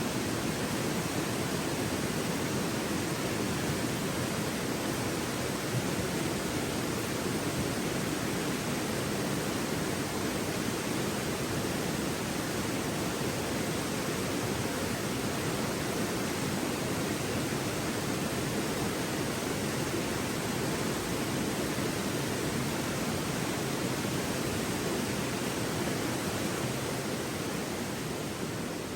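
Steady rush of a flowing river, an even wash of water noise with no breaks.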